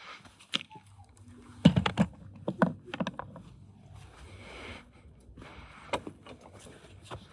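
Clicks and knocks of tools and parts being handled during engine repair, with a quick cluster of sharp knocks from about one and a half to three seconds in and a brief scraping rustle near the middle.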